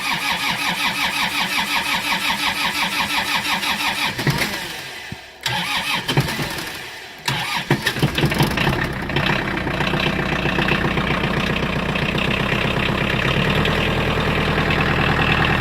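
Kubota L3600 tractor's diesel engine cold-started after sitting out unplugged in the cold. The starter cranks it in even pulses, stops twice briefly, and cranks again. The engine catches about eight seconds in, runs unevenly at first, then settles into a steady idle.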